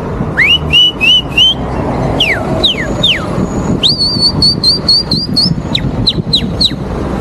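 A man whistling bird-like phrases in place of spoken directions: short upward and downward slides, then a quick run of repeated warbling notes and a few falling chirps, over a low background rumble.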